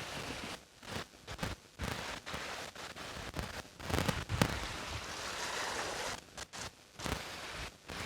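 Wind and sea surf against a rocky shore, broken by irregular crackles and knocks of handling noise, the loudest a little after four seconds in.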